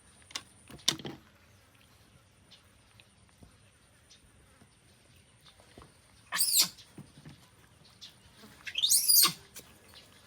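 Pet monkey giving two loud, high-pitched squeals, one about six seconds in and a longer one about nine seconds in. Two short clicks come near the start.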